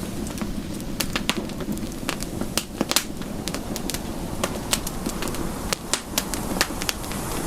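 Campfire crackling: irregular sharp pops and snaps, many per second, over a steady low rumble of the burning fire.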